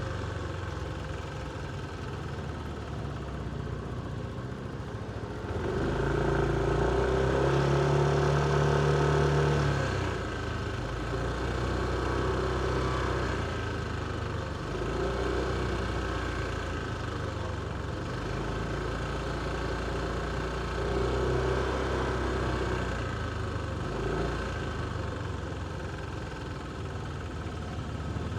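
Motorcycle engine running in city traffic, pulling harder several times and loudest from about six to ten seconds in, then easing off again.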